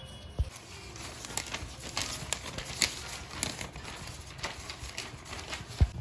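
Paper crinkling and clicking as a birdcage's floor liner is pulled out and replaced, with irregular small clicks and two dull thumps, one about half a second in and one near the end.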